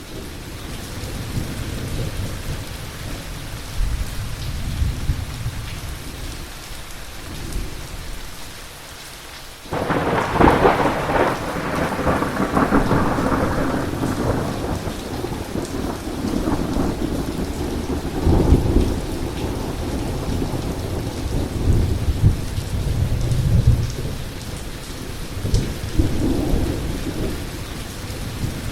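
Heavy rain falling steadily with thunder rumbling low. About ten seconds in, a sudden close thunderclap cracks and then rolls on in swelling rumbles for the rest of the time.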